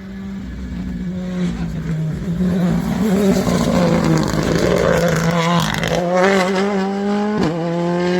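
Rally car engine growing louder as the car comes closer at speed. From about six seconds in its pitch climbs steadily under acceleration, with a quick gear change about seven and a half seconds in before it climbs again.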